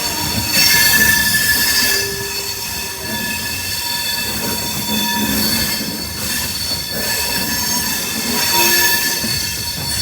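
Passenger train's wheels squealing in several high, steady tones over the rumble of the rolling carriages.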